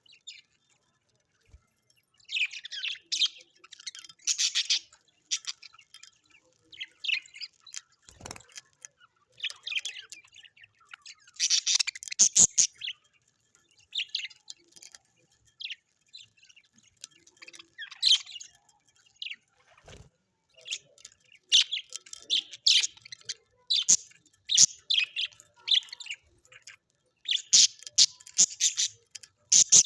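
Small parrots chirping and twittering in quick high bursts with short pauses between, with a few soft knocks among them.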